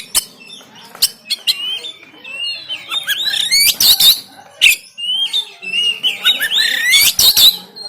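Oriental magpie-robin (kacer) singing a rapid, harsh song. Quick rising and falling whistles are mixed with sharp clicking notes, in two long runs of song, one about three seconds in and one about six seconds in.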